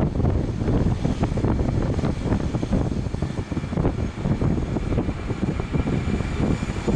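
Wind buffeting the microphone in a gusty low rumble, over the faint steady whine of a Boeing 737's jet engines.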